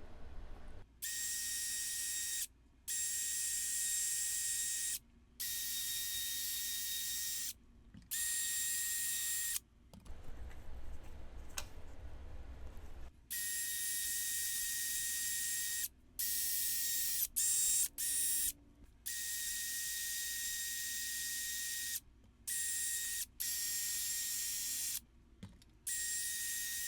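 A power wire wheel scrubbing flash rust off machine parts. The motor's steady whine starts and cuts off abruptly many times, with a rougher, lower stretch about halfway through.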